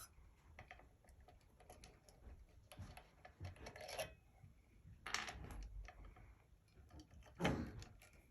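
Faint clicks and rustles of hands working ceiling-fan wires and plastic wire nuts, with a few louder scrapes about three, five and seven and a half seconds in.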